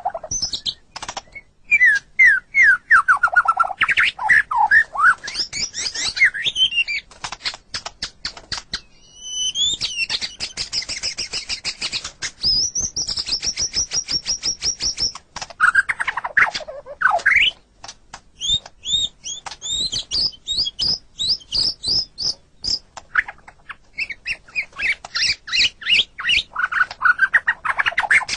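White-rumped shama singing a long, varied song. It mixes fast series of falling notes, rapid clicking rattles and high whistled phrases, with only brief pauses.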